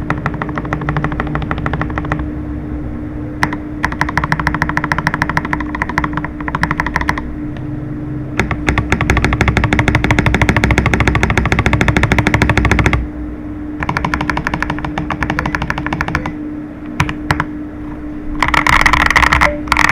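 Typing on a GAS67 67-key gasket-mount mechanical keyboard with a polycarbonate plate and silicone foam: fast, dense keystroke clatter in bursts with short pauses. The quickest, loudest stretch falls in the middle, and a denser flurry of keystrokes comes near the end.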